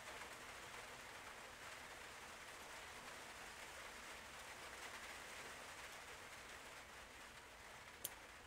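Faint, steady hiss of room tone, with one sharp click about eight seconds in.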